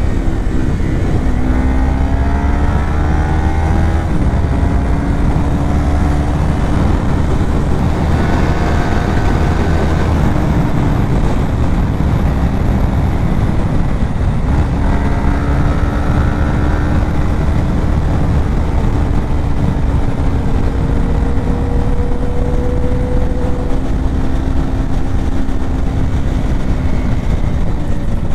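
Kawasaki Ninja 400's parallel-twin engine running at cruising speed under heavy wind rush, its note rising gently in the first few seconds and again in the second half, then holding steady.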